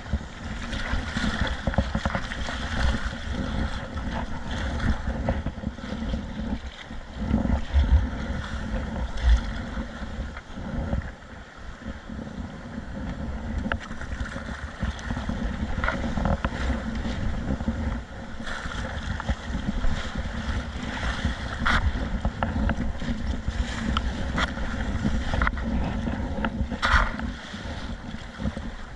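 Wind buffeting the microphone over the wash of sea waves around a kayak, with a few brief sharp sounds along the way.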